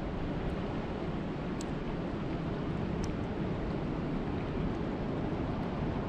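Steady rain falling, an even hiss with a few faint sharp ticks.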